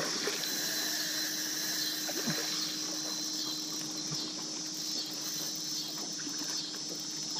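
Steady high-pitched insect chorus with a low steady hum beneath it and a few faint knocks.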